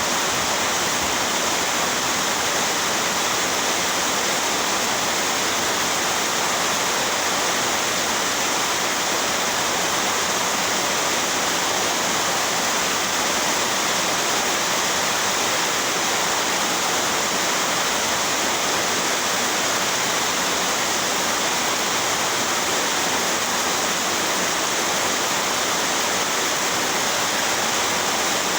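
Heavy rain pouring down: a loud, steady, even hiss that does not let up.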